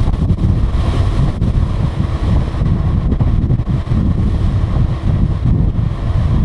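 Strong wind buffeting the microphone on the open deck of a ferry underway, a loud, gusty rumble.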